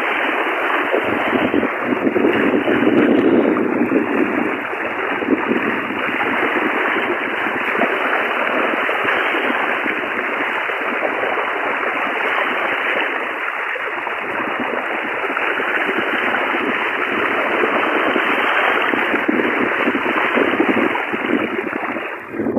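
Rushing floodwater: a steady, loud rush of strong current, heavy enough to press against someone wading through it.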